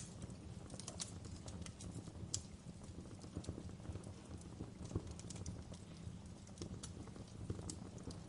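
Fireplace crackling: irregular small pops and snaps over a low, steady rumble.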